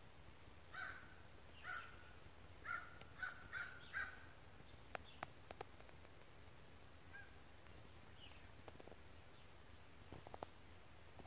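Faint bird calls in quiet woodland: a run of six short calls over the first four seconds, then a few sharp clicks, and thin high chirps near the end.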